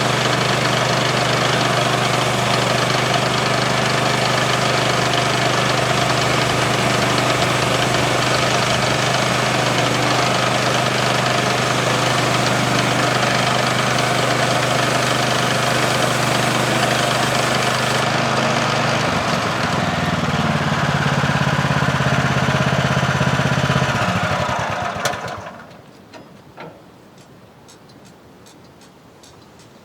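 The small gas engine of an HM-126 portable bandsaw mill runs steadily under load, with a bright cutting hiss above it. About 18 seconds in the hiss drops away and the engine note shifts. It is then shut off and dies away at about 25 seconds, leaving a few faint ticks.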